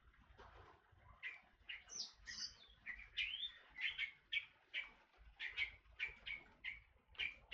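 A forest oriole (kepodang hutan) calling: a steady run of short, sharp notes, nearly three a second, starting about a second in.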